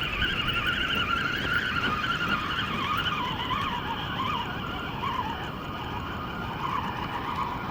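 Spinning reel on a feeder rod being cranked to bring in a hooked fish, its whirring whine wavering up and down in pitch as the cranking speed changes, over a low rushing background.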